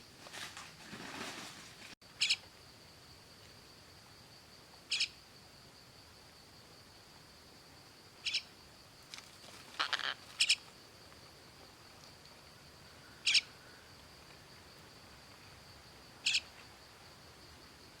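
A bird calls with short, sharp notes, about seven of them a few seconds apart, two close together near the middle, over a faint steady high-pitched hum. The first two seconds hold rustling noise that cuts off abruptly.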